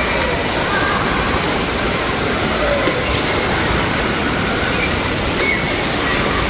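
Steady rush of water in an indoor water park, with faint distant shouts of children over it.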